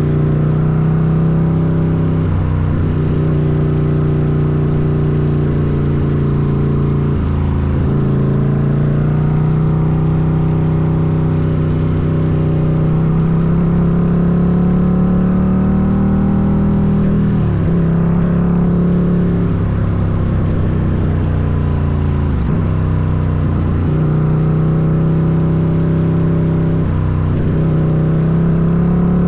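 Ducati Scrambler's air-cooled L-twin engine running while trail riding, its note holding steady and then dipping briefly and picking back up about five times.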